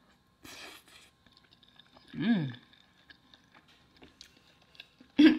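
A person chewing a mouthful of food with small wet mouth clicks, with a short hummed, falling-pitch vocal sound about two seconds in.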